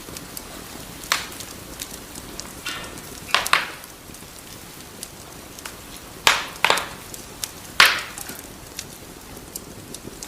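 Wood fire crackling in a fireplace: a steady soft hiss scattered with small ticks and pops, and sharp louder snaps about a second in, around three and a half seconds, twice around six and a half seconds and once near eight seconds.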